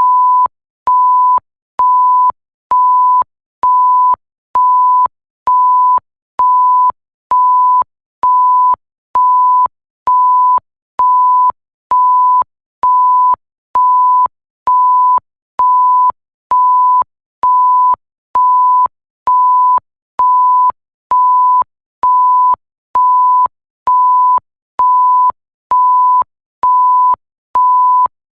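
Bleep sound effect: a single steady pure tone beeping on and off in an even rhythm, about one short beep a second, with a faint click as each beep starts and stops.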